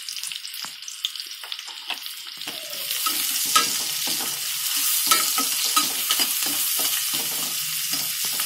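Sliced onions and green chillies sizzling in hot oil in a stainless steel kadai, sautéing towards golden brown, while a steel spoon scrapes and clatters against the pan as they are stirred. The sizzle grows louder about three seconds in.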